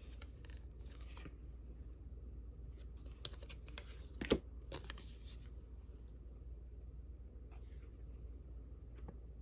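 Faint rustling and light tapping of old paper cards being handled and shuffled, with a small cluster of clicks and one sharper tap about four seconds in, over a low steady hum.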